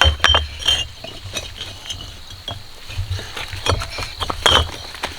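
Bricks clinking and knocking together as they are handled and stacked, an irregular string of sharp clicks, some with a short ring.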